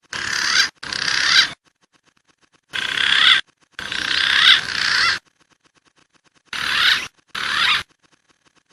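Recorded wild pigeon calls, looped as a hunting lure: six short, harsh, warbling calls in three pairs with silent gaps between.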